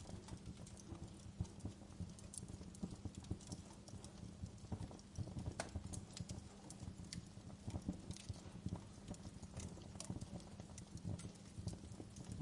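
Burning wood crackling, with irregular sharp snaps and pops over a low steady rumble.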